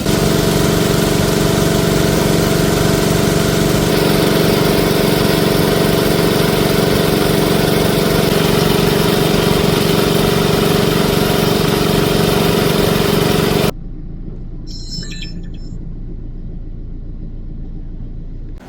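Engine of a water pump running steadily while pumping out floodwater; about fourteen seconds in it cuts off abruptly, leaving a quieter low rumble.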